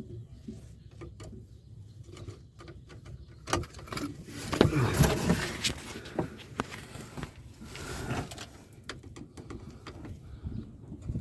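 Hand tools and car parts being handled while working on a car, heard as scattered clicks and knocks with a louder stretch of scraping and rattling about halfway through.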